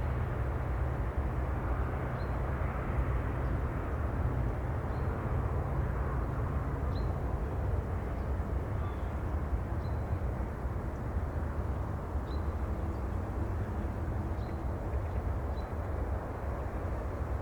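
Steady sea ambience: a continuous low rumble of distant surf, with faint short high chirps every second or two.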